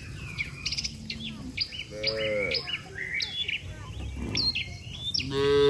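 Small birds chirping and twittering throughout, with two short, low calls from cattle: one about two seconds in and a louder one near the end.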